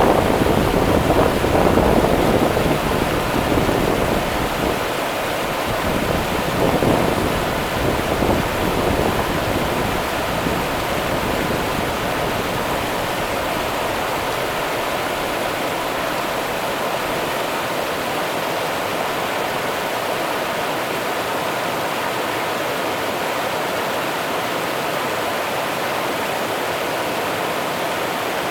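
Rio Grande river water running with a steady, even rush. Low gusts of wind on the microphone add a rumble for the first several seconds, then die away.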